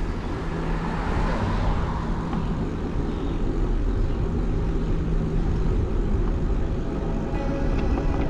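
Steady rumble of wind and road noise from a camera mounted on a moving bicycle, with a swell of hiss about a second in.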